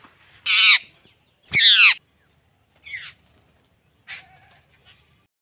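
A bird giving harsh squawking calls, each falling in pitch: two loud ones in the first two seconds, then two softer ones. A sharp knock comes just before the second call.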